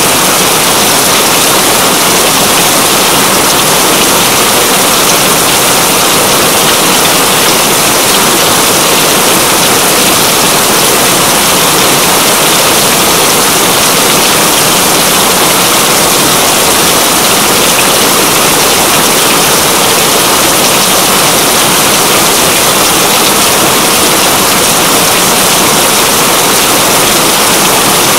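Steady, loud rainfall, an even unbroken hiss of water with no change in intensity.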